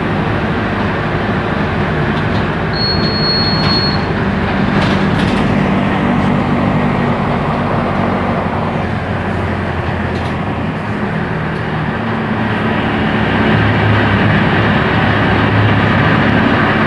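Mercedes-Benz OF-1418 bus's diesel engine running while the bus is under way, its note rising and falling as it pulls. A short high beep sounds about three seconds in.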